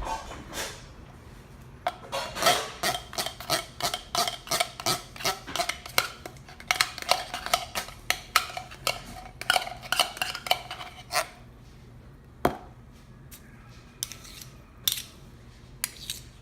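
Small metal spoon clinking and scraping, about four ringing clinks a second for roughly nine seconds, then a few single clinks, as thick condensed cream soup is spooned out and over the chicken.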